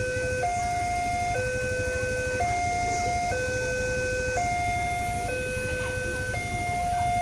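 Railway level crossing warning alarm sounding a two-tone electronic signal, a lower and a higher tone alternating about once a second without pause, the warning that a train is approaching and the barriers are down. A low rumble of road traffic runs underneath.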